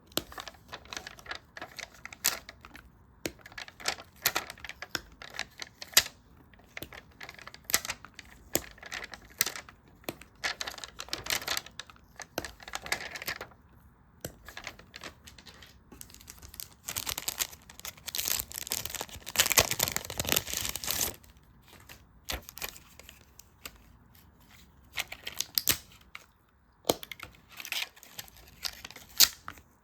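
Close-miked sticker-journaling sounds: stickers being peeled from their backing and handled, paper crinkling, and many sharp light taps and clicks, with a longer run of dense rustling a little past the middle.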